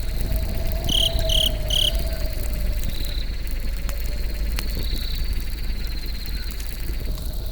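Campfire crackling, with insects chirping steadily over it; three louder chirps come in quick succession about a second in.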